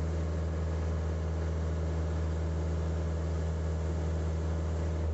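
Tractor diesel engine running steadily at full throttle, its pitch held constant at high revs.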